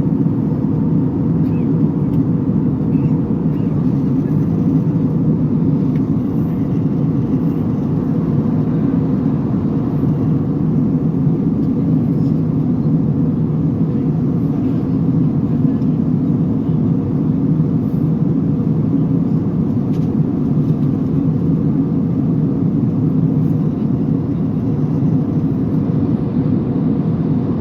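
Steady, even drone of a passenger jet heard from inside the cabin: engine and airflow noise with no change in pitch or level.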